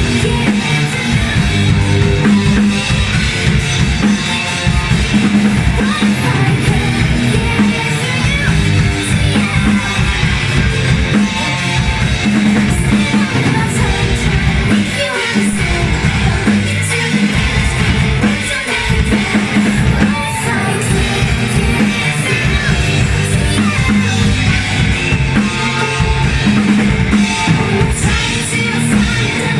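Live band playing loud, continuous music, with a drum kit and singing.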